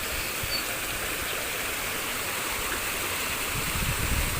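Water from a garden waterfall falling and flowing: a steady rushing hiss, with some low rumbling near the end.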